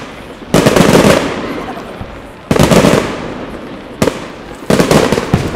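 Aerial firework shells bursting four times, each sharp bang followed by a crackling tail that fades over a second or two.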